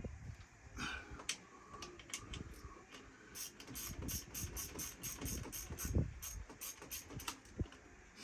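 Ratchet wrench clicking as it is worked back and forth, a steady run of about four to five clicks a second through the second half, with a few scattered tool knocks and clinks before it.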